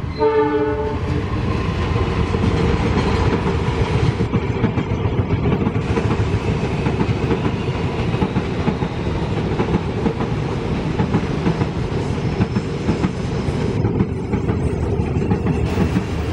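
A train rolling through the station junction, its wheels clattering rapidly over rail joints and switch points over a steady rumble. A train horn blast cuts off about a second in.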